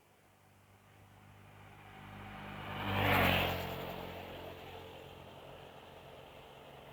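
A motor vehicle passing by on the road: its engine and tyre noise swell to a peak about three seconds in, then fade away.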